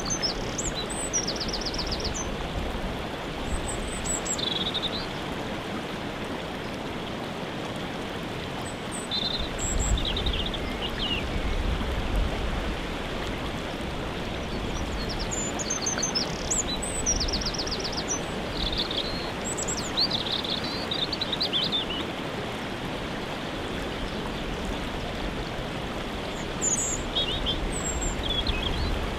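Waterfall rushing steadily, with songbirds chirping and trilling over it every few seconds.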